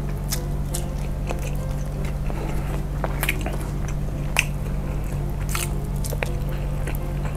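Close-miked chewing and wet mouth sounds of someone eating soft pieces of a cheese-filled meatball by hand, with scattered lip smacks and finger-licking clicks over a steady low hum.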